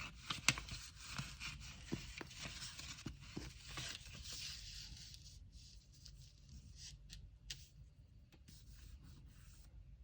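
Paper packing materials being handled: rustling and scraping with scattered light taps and clicks, dying down about halfway, then only a few isolated ticks.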